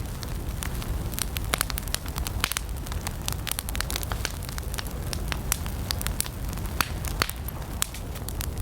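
Wood campfire burning, with frequent sharp crackles and pops over a low, steady rumble of flames.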